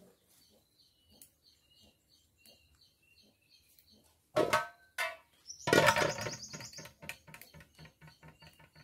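Birds chirping in quick, short, high peeps, with two louder, longer calls about four and six seconds in.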